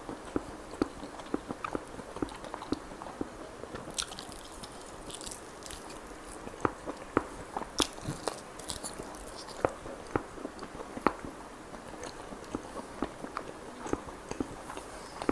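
Close-miked mukbang eating of chicken kalmi kebab: steady wet chewing and biting, a quick run of small mouth clicks with sharper crunchy bites in the middle.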